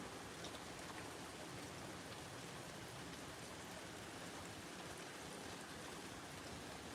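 Steady rain falling, an even soft hiss with no thunder.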